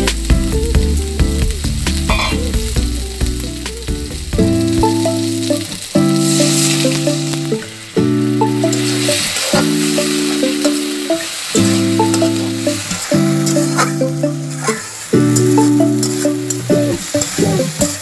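Potatoes and onions sizzling in oil in a wok as they are stirred with a spatula, under background music of sustained chords that change every second or two.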